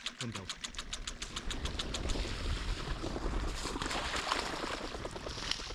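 Rapid, even mechanical ticking, about nine a second, giving way after about two seconds to a low rumble.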